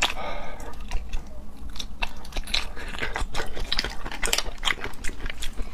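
Close-miked chewing and mouth sounds of a person eating raw seafood: an irregular run of short clicks and smacks, several a second.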